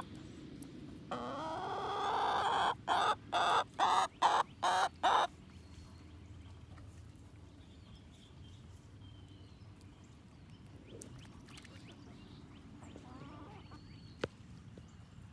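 A hen calling: one long rising squawk held for about a second and a half, then six short loud clucks in quick succession. After that only faint, scattered clucks.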